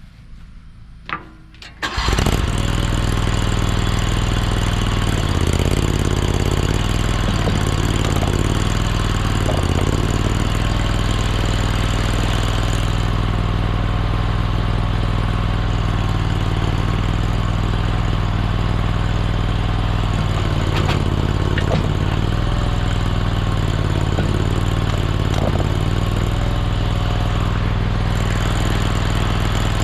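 Mini skid steer's engine starts suddenly about two seconds in and then runs steadily, its note dipping briefly a few times.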